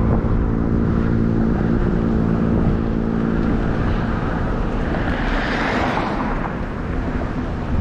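Road traffic heard from a bicycle: a motor vehicle's engine hum fading away, then another vehicle's tyre hiss swelling and fading about five to six seconds in. A steady low rumble of wind on the microphone runs underneath.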